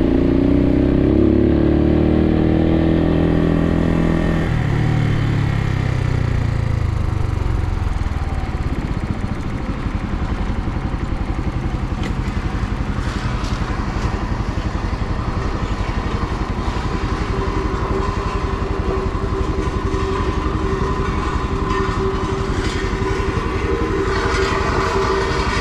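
Suzuki TU250X's air-cooled single-cylinder engine pulling out of a left turn, its pitch climbing for the first few seconds, then a gear change about four seconds in, after which the engine note drops back and settles. The engine then runs steadily under wind and road noise.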